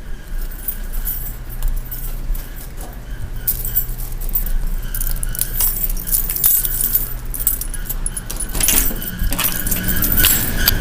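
Clothes dryer running: a steady low hum with a thin high tone and a metallic jingling rattle, louder near the end. The residents complain of it as a loud, squeaking dryer that repeated repairs have not fixed.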